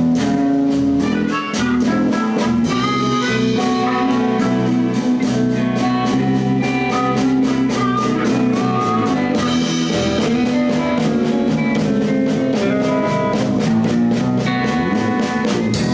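Live blues band playing an instrumental passage: guitar over bass and a steady drum beat.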